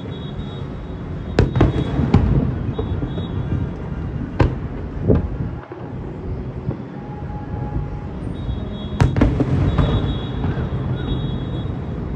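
Fireworks display: a continuous low rumble of bursting shells with several sharp, loud bangs, the loudest about a second and a half in and again near nine seconds.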